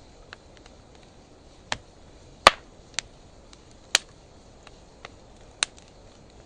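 A wood fire of driftwood and dry hardwood firewood crackling, with about five sharp pops and a few faint ticks between them over a low hiss. The loudest pop comes about two and a half seconds in.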